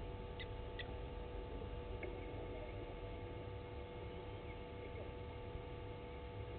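Steady outdoor background of a field microphone with a constant electrical hum and low rumble, and two short high chirps from a bird about half a second apart near the start.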